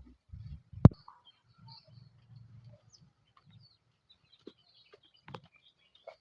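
Faint, scattered bird chirps, with one sharp, loud knock about a second in and a few softer knocks later.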